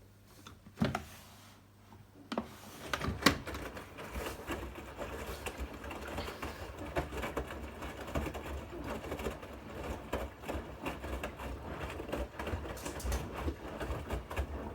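Bosch Series 8 front-loading washing machine running: a sharp knock about a second in, then from about three seconds the drum turns with a steady, dense clatter and low rumble that stops near the end.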